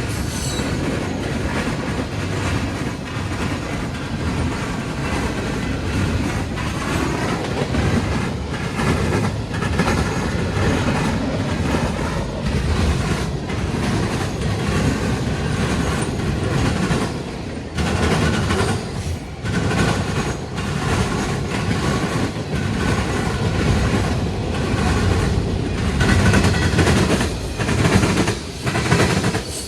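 Railroad cars rolling past at close range, steady heavy rumbling with wheels clicking over rail joints and a faint squeal from the wheels.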